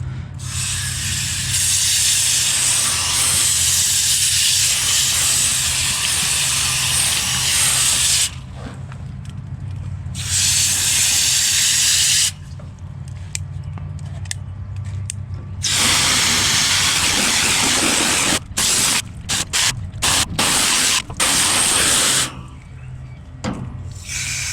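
Garden hose spraying water onto the coil of a Goodman central air conditioner condenser, in long bursts of several seconds with pauses between them, then short stop-start bursts in the second half. A steady low hum runs underneath.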